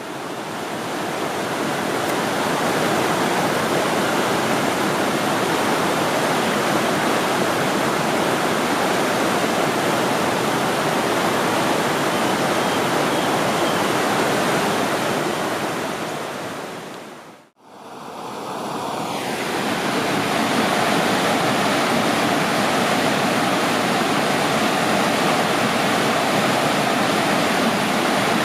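Steady rushing water, an even hiss and roar. About 17 seconds in it drops out briefly, then fades back in and carries on the same way.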